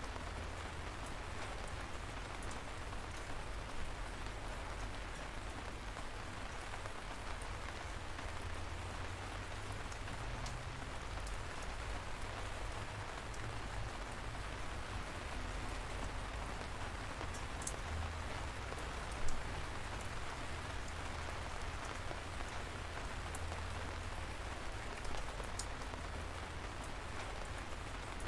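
Steady light rain, with the patter of individual drops ticking over an even hiss and a low rumble underneath; one drop lands louder about 19 seconds in.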